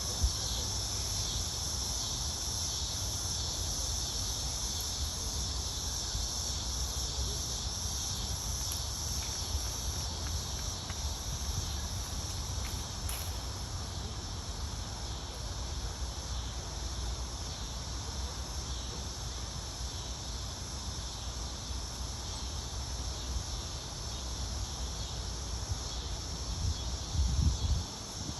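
Steady outdoor insect chorus, a continuous high buzz, over a low rumble that surges briefly near the end.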